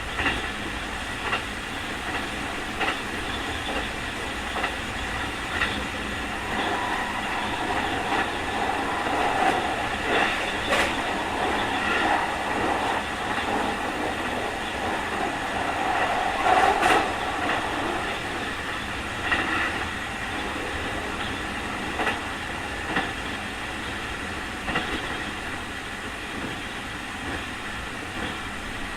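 Onboard running sound of a Keikyu 2000 series electric train car at speed: a steady rumble with a faint high whine, and wheel clicks over rail joints every second or two. The rumble swells twice, loudest about two-thirds of the way through.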